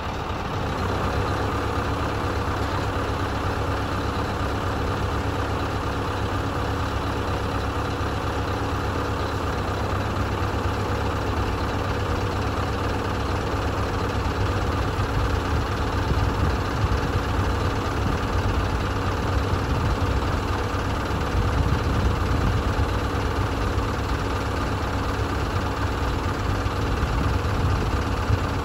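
Scania R560's 16-litre V8 diesel engine idling steadily.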